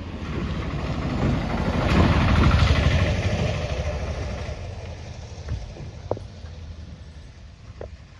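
A motor vehicle passing by: its engine grows louder for about two seconds, peaks, then fades away. Two short sharp sounds come near the end.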